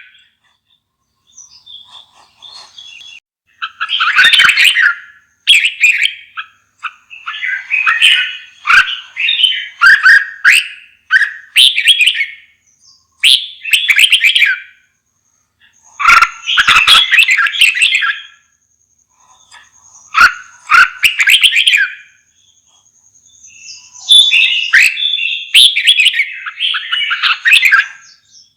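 Red-whiskered bulbul singing: loud warbling, chattering phrases of a second or two each, repeated in bursts with short pauses between them, starting in earnest about four seconds in.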